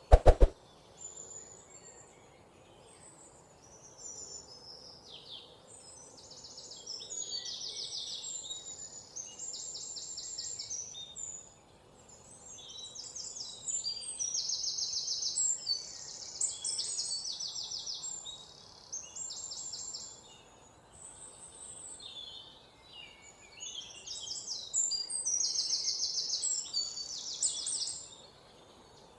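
Birds singing: repeated high, rapid trills and chirps in phrases a few seconds long, over a faint steady hiss. A short loud clatter right at the start.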